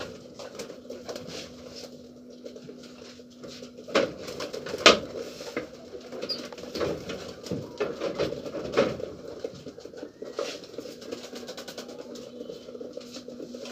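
Domestic pigeons cooing and shuffling about, with light pattering and scuffing throughout. Two sharp knocks come about four and five seconds in, the second the loudest.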